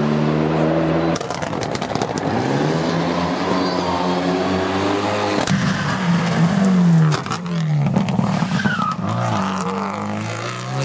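Rally car engine at high revs on a special stage, the pitch climbing and dropping back several times as it shifts gear and lifts off. There are a few sharp cracks along the way.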